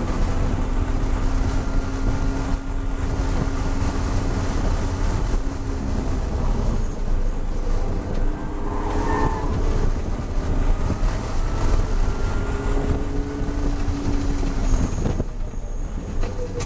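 BMW E36 M3's straight-six engine running under load, heard from inside the cabin over heavy road and wind rumble, its note drifting gently up and down in pitch.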